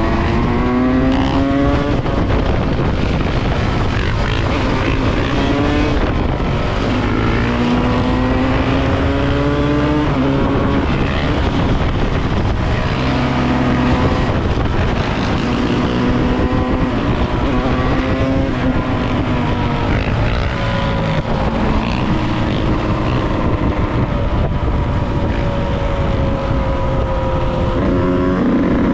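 Yamaha YZ125 single-cylinder two-stroke dirt bike engine under way, revving up through the gears. Its pitch climbs and drops back at each shift, over and over, with a heavy low wind rumble on the microphone.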